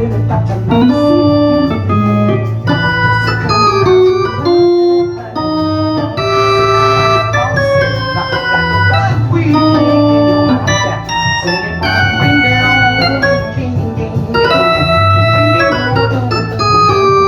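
Instrumental keyboard music: Hammond XB-3 organ sound holding chords, with Wurlitzer and Rhodes electric piano sounds, over a repeating bass line, played on an Ensoniq TS-12 synthesizer.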